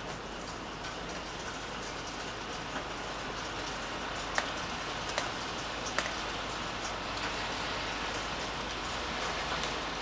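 Steady rain falling, with a few sharp single drops striking close by around the middle.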